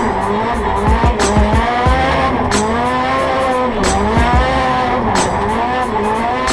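Turbocharged Mitsubishi 4G63 four-cylinder swapped into a BMW E46 drift car, heard from inside the cabin, revving up and down repeatedly as the tyres squeal through a drift. A music track with a steady beat runs underneath.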